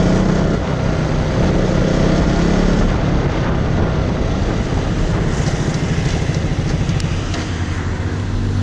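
KTM Duke 200's single-cylinder engine running at highway speed over wind noise, stuttering as it runs out of fuel. Its steady note gives way to uneven pulsing about three seconds in.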